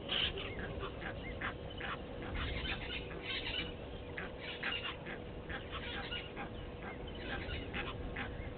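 A chorus of birds calling, many short chattering calls overlapping and repeating throughout, over a faint steady hum.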